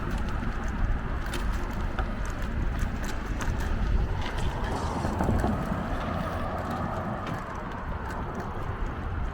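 Riding a bicycle: a steady rumble of tyre and road noise with scattered clicks and rattles.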